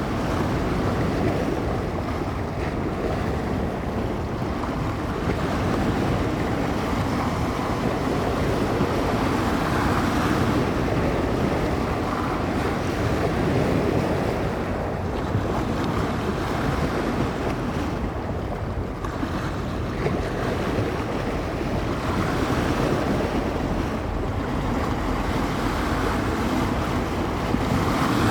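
Waves washing and breaking along the shore in surges every few seconds, with wind rumbling on the microphone.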